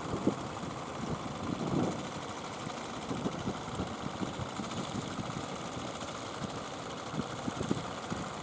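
Fishing boat engine running steadily, with irregular low thumps.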